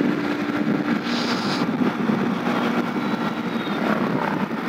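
Bajaj Pulsar NS160's single-cylinder engine running steadily at cruising speed, heard with road and wind noise on the microphone. A brief hiss about a second in.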